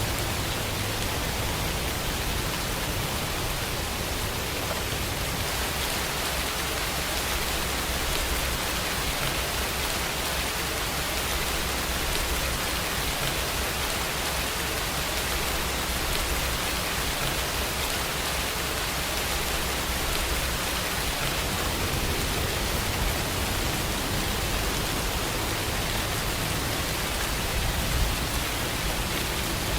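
Steady, even rainfall: a continuous hiss of falling rain with no breaks, over a low rumble.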